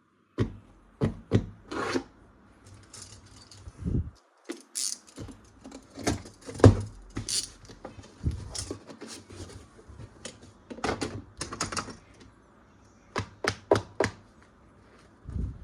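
Toys and their packaging being handled and unboxed: irregular sharp plastic clicks and knocks, with a few short rustling scrapes.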